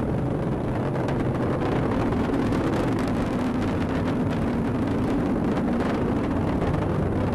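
Atlas V rocket's RD-180 engine rumbling steadily under full thrust during ascent, a constant low roar with no change in level.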